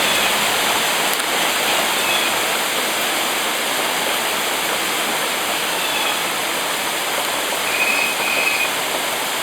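Very heavy rain pouring down in a dense, steady hiss.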